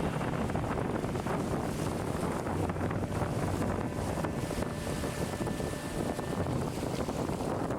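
Steady rush of river water with wind buffeting the microphone, as heard from a raft on the river.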